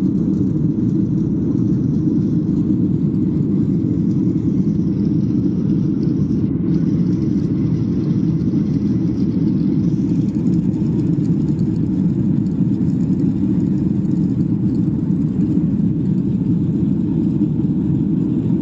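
Airliner cabin noise in flight: a steady low drone of the jet engines and airflow heard from inside the passenger cabin.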